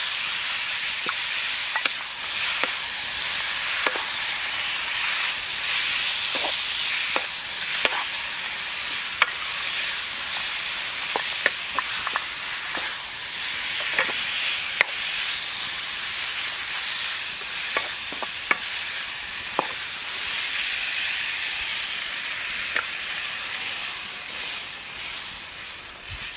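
Food frying in a pan, sizzling steadily, with scattered sharp pops and clicks as it is stirred; the sizzle dies down near the end.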